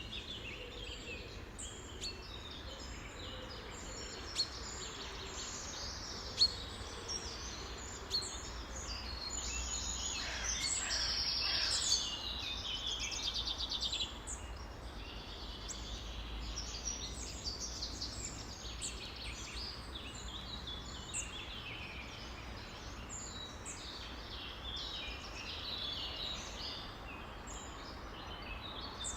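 Many birds calling at once, a dense chorus of short chirps and whistles with no pause, and a louder buzzy trill about ten seconds in.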